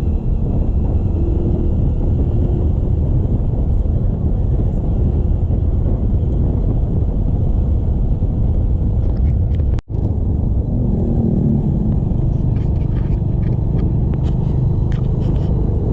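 Steady rumble of a motorcycle being ridden on the road. It drops out for an instant a little past halfway.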